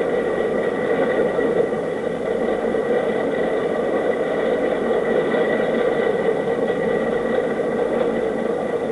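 Steady mechanical running noise: a constant whir with a thin high whine over it, unchanging throughout.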